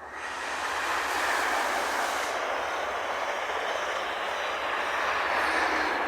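A train passing close by: a loud, even rush of wheel and rail noise that swells in sharply at the start, holds steady, and begins to fade near the end.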